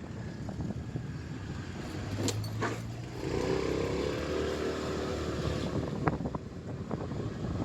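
Motorcycle on the move, with engine rumble and wind on the microphone; about three seconds in an engine note rises, holds for a couple of seconds and fades.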